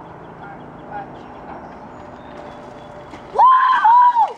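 A steady low rumble of noise with a few faint ticks, then about three and a half seconds in a boy lets out a loud, high yell lasting about a second.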